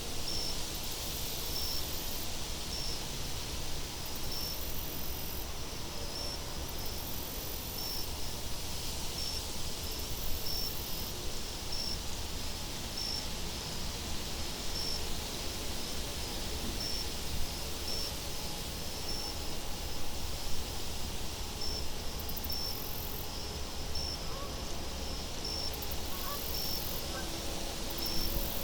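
Steady outdoor wind noise with a low rumble, over which a cricket chirps a short, high note about once a second.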